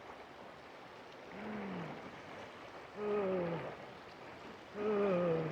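A woman's voice making three drawn-out vocal sounds, each sliding down in pitch, the last two louder, over a steady background hiss.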